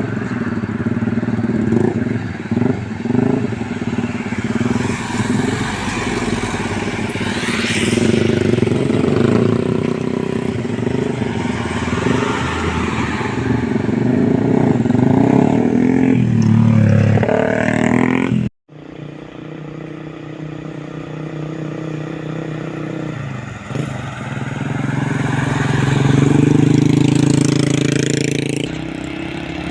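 Heavy truck engines running and passing by in road traffic, their pitch rising and falling as they pull away. The sound cuts off abruptly about two thirds of the way through, then another engine comes up and grows louder near the end.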